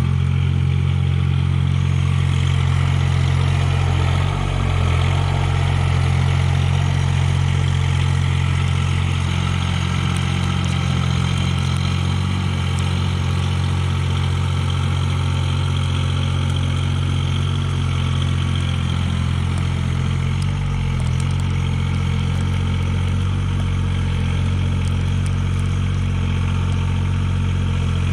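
Mahindra eMax 20S HST tractor's three-cylinder diesel engine running steadily, with slight dips in engine note about four seconds in and again about twenty seconds in.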